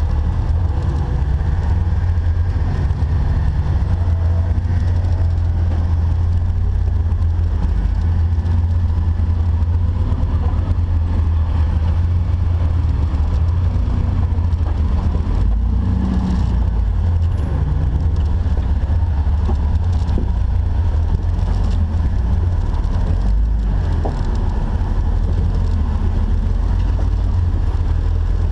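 Jeep engine and drivetrain running steadily with a constant low rumble while crawling off-road.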